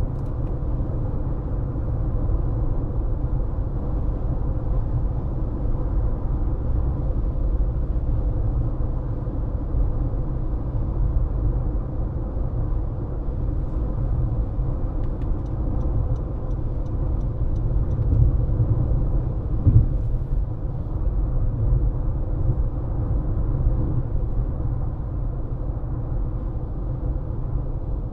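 A car driving at steady speed: continuous road and engine rumble, heaviest in the low end. A faint even ticking runs for a few seconds about halfway through, and there is a single short bump about two-thirds of the way in.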